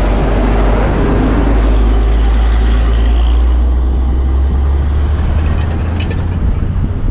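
Wind buffeting a helmet-mounted action camera's microphone while cycling: a loud, steady low rumble with a rushing noise that eases after about three seconds, and a few light clicks near the end.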